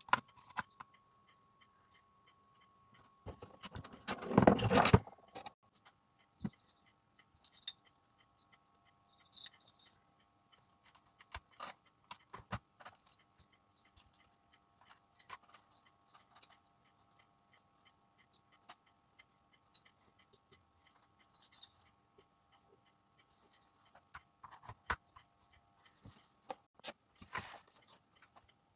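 Small metal parts and hand tools clicking and clinking now and then, as in work on an RC car's engine, with a louder rustling scrape lasting about two seconds around four seconds in. A faint steady hum runs underneath.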